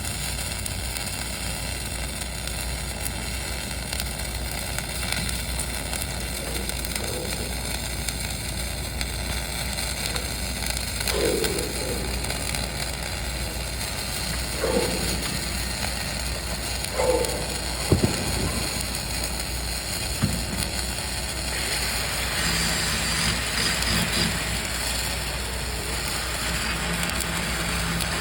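Dual-shield flux-core welding arc crackling and hissing over a steady machine hum, with a few sharp pops in the middle. The crackle grows brighter over the last several seconds.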